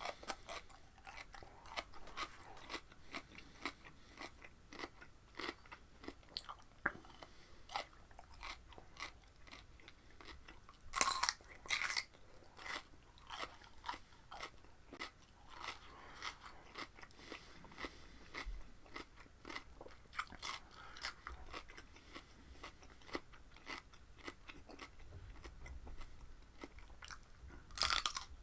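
A person biting and chewing raw cucumber close to the microphone, with a steady run of small wet chewing clicks. Louder crunching bites come about eleven seconds in and again near the end.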